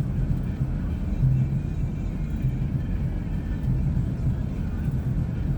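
A vehicle driving slowly through snow on a woodland track, heard from inside the cabin: a steady low rumble of engine and tyres, with an engine hum that swells and fades every second or so.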